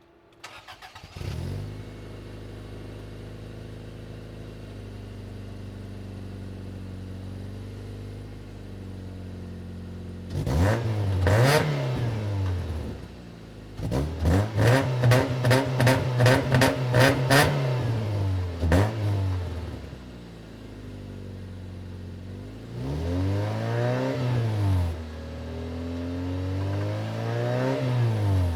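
A 1997 Toyota Corolla's engine, heard through its new exhaust, cranks and catches about a second in, then idles steadily. It is revved once, then blipped quickly about eight times in a row, then revved twice more near the end.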